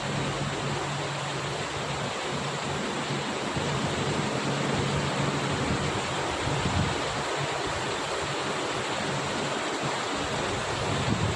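Steady rain falling, an even hiss with no pauses. A low steady hum lies faintly under it for the first few seconds.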